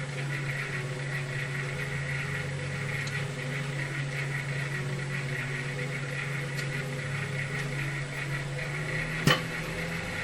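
Microwave oven running with a steady hum and fan hiss while heating raw roe-filled shishamo, with one sharp pop about nine seconds in.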